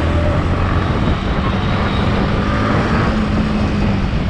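Yamaha MT-15's 155 cc single-cylinder engine running steadily under the rider, its pitch rising slightly partway through, with wind and road noise over an unshielded camera microphone.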